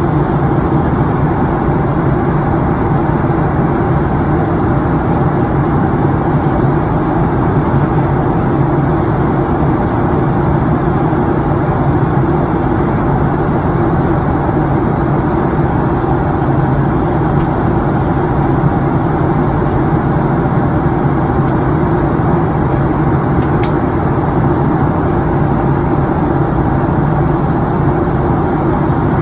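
Steady cabin noise inside a Boeing 737-900ER in flight: rushing airflow over the fuselage with the low hum of its CFM56-7B engines.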